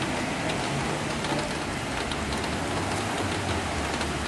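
Steady hiss of rain and water spray on a flooded street, as a car drives slowly through the floodwater with its engine rumbling low, the rumble coming in about a second in.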